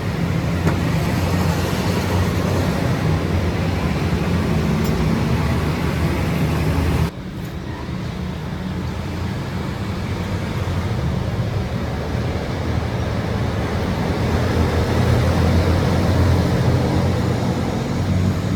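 Steady workshop machinery noise with a low hum under a broad rush. It cuts off abruptly about seven seconds in and gives way to a similar, slightly quieter machine sound that grows louder later on.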